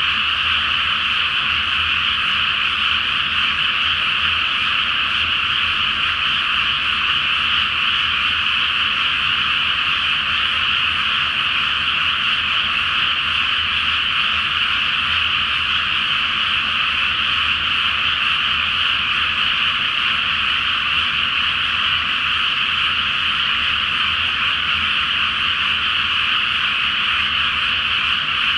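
Large chorus of frogs in a flooded rice paddy: a dense, unbroken mass of overlapping croaking calls.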